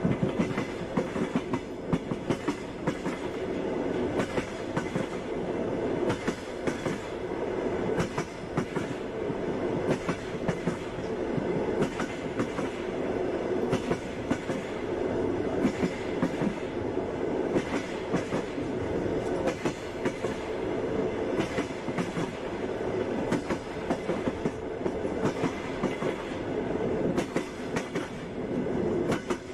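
Passenger train running steadily on the rails, a constant rumble broken by repeated sharp clacks of the wheels over rail joints.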